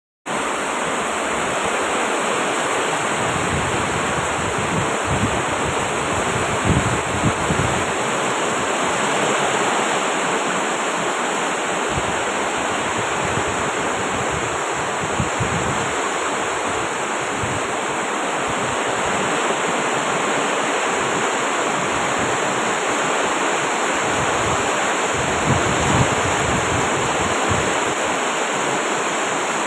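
Heavy rain pouring down in a steady, loud hiss, with a few brief low surges about seven seconds in and again near the end.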